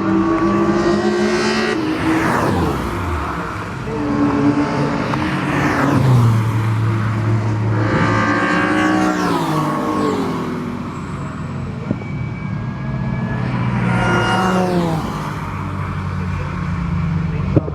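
Several racing cars going past on a circuit, one after another, engines at high revs; each car's engine note falls in pitch as it goes by.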